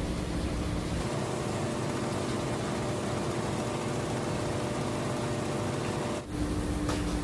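Cargo boat's engine running steadily. The drone changes character abruptly about a second in and again near the end.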